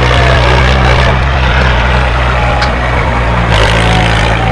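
Heavy vehicle engine running steadily at a low, even pitch, with a noisy rattle above it.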